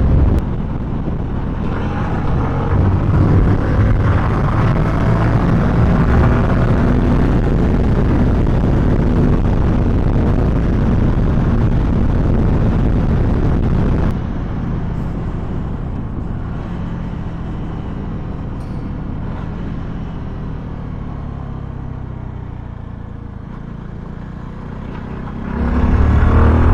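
CFMoto 300SR motorcycle's single-cylinder engine ridden hard, revving up through the gears with wind rushing past. About halfway through it drops off and runs quieter for a while, then revs up loudly again near the end.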